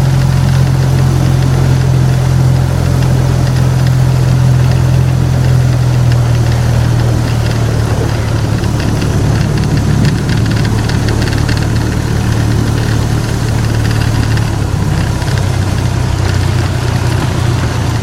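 Park tour train's engine running steadily with a low drone that eases slightly in pitch around the middle.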